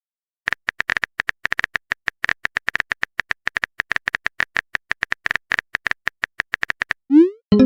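Phone keyboard typing clicks, a rapid irregular run of many short taps a second. Near the end comes a short rising swoosh, the message-sent sound.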